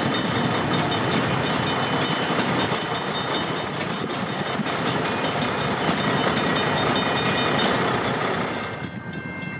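A freight train of empty boxcars rolling past at close range, with a steady rumble and many rapid clicks and rattles from the wheels and cars. The sound drops away somewhat near the end.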